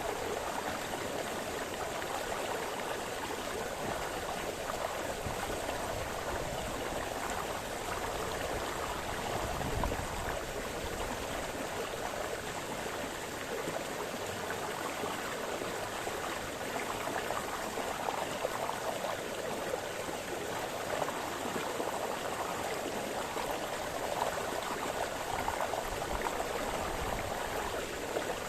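A small brook splashing and babbling over stones, a steady flow of water.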